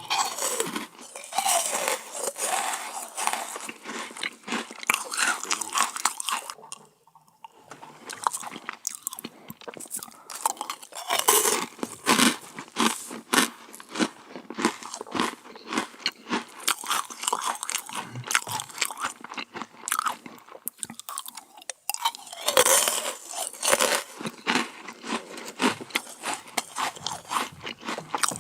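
A person biting and chewing dessert close to the microphone: crisp, crackly crunching in runs, pausing briefly twice.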